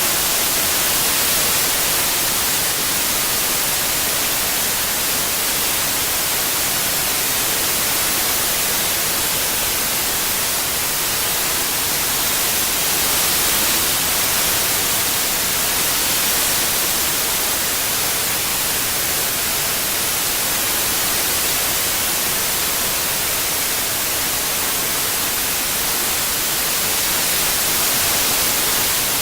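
Steady synthetic white noise, an even hiss that leans bright and high-pitched, with slight slow swells in level.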